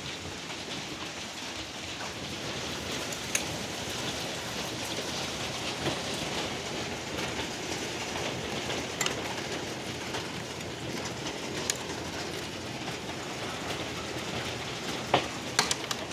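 Heavy rain pouring steadily in a hail storm, with a few sharp knocks from hailstones striking scattered through it, the loudest ones near the end.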